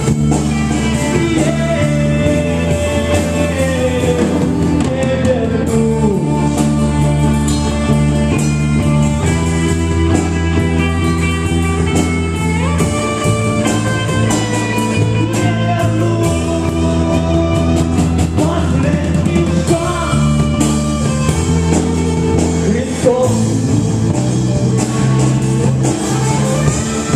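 Rock band playing a song, with guitar and a drum kit and a melodic line that glides from note to note.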